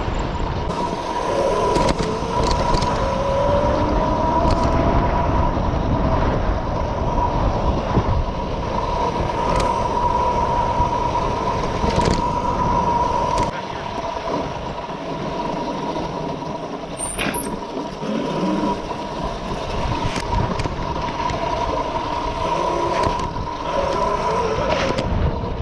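Mini bike engine running steadily while riding off-road, its pitch holding fairly even, with wind buffeting the microphone.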